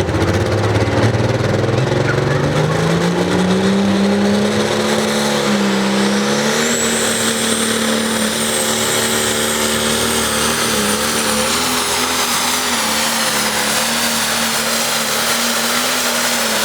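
Diesel engine of an International pro stock pulling tractor under full load, revving up over the first few seconds and then holding high and steady down the track, with a thin high whine coming in about halfway. The announcers afterwards say it almost sounded like it was missing and didn't sound connected right from the start.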